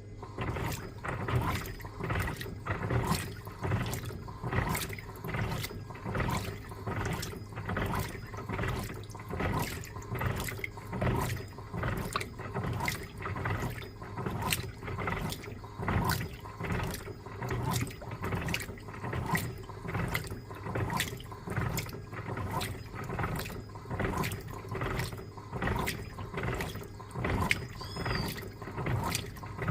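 Electrolux LTA15 top-loading washing machine agitating a load of bed linens in water: the wash motion starts up and the water sloshes in a steady, even rhythm over a constant motor hum.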